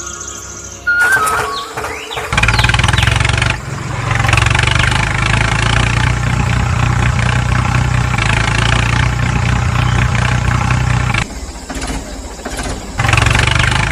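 Engine running steadily at a low, even pitch. It starts about two seconds in, cuts out briefly near the end, then comes back.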